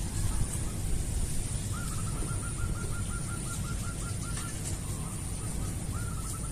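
A bird calling: a rapid run of short, evenly spaced notes, about five a second, for a couple of seconds, then a shorter run near the end, over a low steady rumble.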